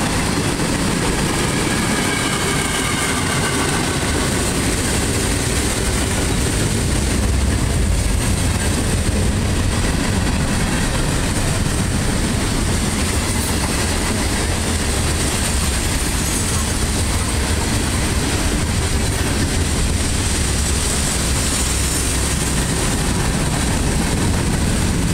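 Freight cars (tank cars and covered hoppers) rolling past close by: a steady rumble of steel wheels on the rails. Between about two and five seconds in there is a faint high squeal from the wheels.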